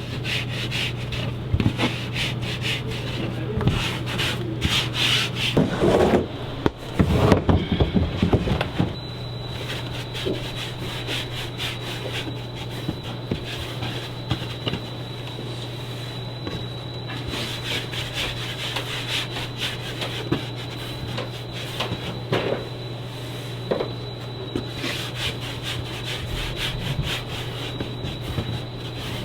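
Repeated rubbing strokes, as of hands rolling and twisting kkwabaegi dough on a wooden work table, busiest and loudest with a few knocks about six to eight seconds in. A steady low hum runs underneath.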